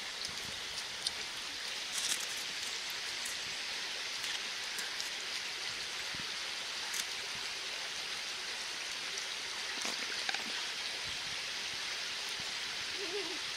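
Steady rush of a woodland stream's running water, with a few faint clicks and knocks over it.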